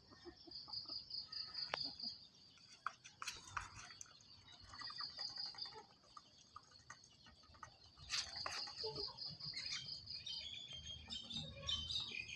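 Insects trilling steadily in a rapid high pulsing chirp, with scattered faint clicks and knocks.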